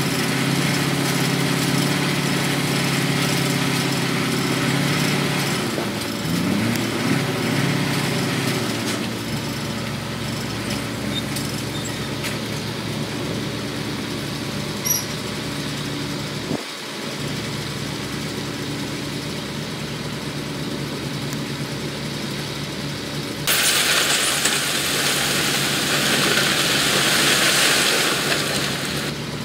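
Diesel engines of heavy construction machinery running, rising in pitch briefly as one revs up. Near the end a loud hiss lasts about six seconds.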